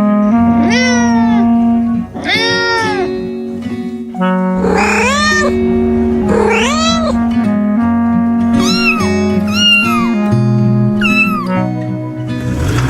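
A cat meowing, about seven separate meows that each rise and fall in pitch, over background music with sustained notes.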